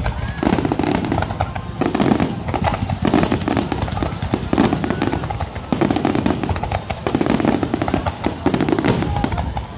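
Fireworks display: many aerial shells bursting in rapid, overlapping succession, a continuous barrage of bangs and crackling.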